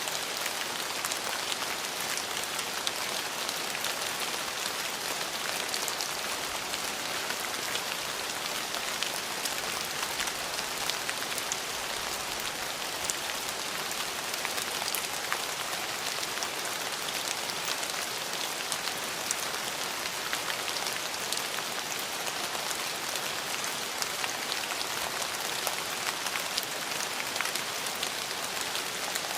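Steady rain falling, an even hiss with many small sharp drop impacts on a hard surface.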